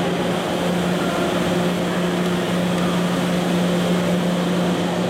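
Steady machinery hum from the JR East E001 'TRAIN SUITE Shiki-shima' train beside the platform: one constant low tone over an even rush of fan-like noise.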